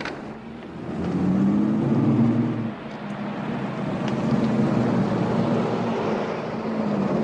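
Car engine running, starting about a second in, its low note rising and falling slightly as the car moves.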